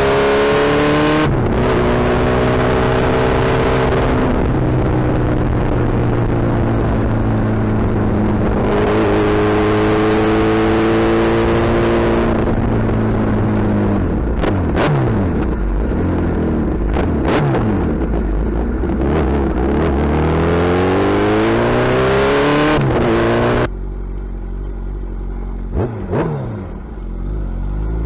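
Suzuki Hayabusa's inline-four engine through a loud exhaust while riding, revving up through the gears; its pitch climbs, then drops at each shift. Near the end the sound drops abruptly to a quieter, lower note.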